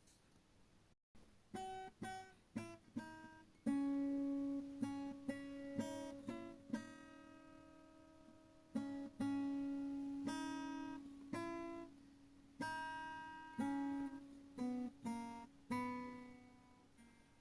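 Background music of an acoustic guitar playing plucked notes and chords, each note fading out slowly.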